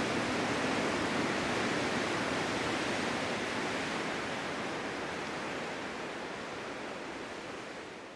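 Winter storm wind blowing as a steady rush with no distinct gusts, fading out gradually over the last few seconds.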